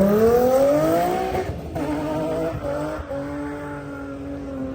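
A car accelerating hard with a loud exhaust. The engine note climbs steeply, breaks off about a second and a half in as it shifts up, then carries on at a steadier pitch.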